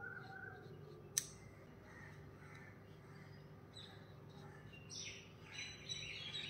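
Birds calling faintly in the background, with a single sharp click about a second in.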